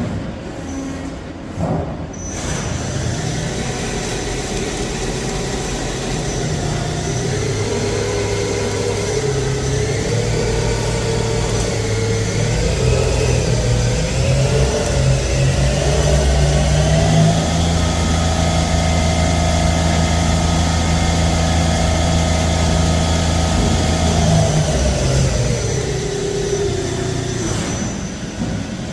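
CNC lathe running a G71 rough-turning cycle: a steady machine whine over a low hum. The pitch creeps up in small steps through the middle, holds, then drops away near the end as the spindle slows.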